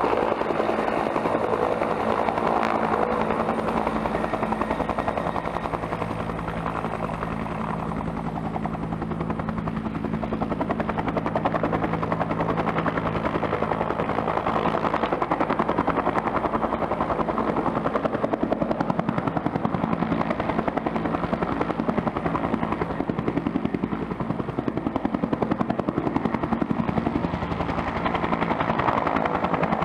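Bell twin-turbine helicopter running: turbine whine under a rapid, steady rotor beat, swelling and easing slightly in loudness.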